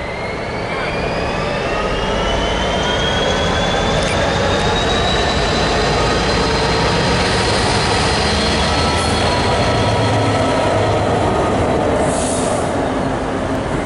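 British Rail Class 66 diesel locomotive, its EMD two-stroke V12 engine running hard as it passes running light engine, with a whine that rises in pitch over the first few seconds and then holds steady.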